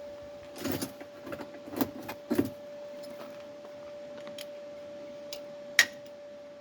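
Light metallic clinks and rattles of tools or small steel pieces being handled, with one sharp click near the end, over a faint steady hum.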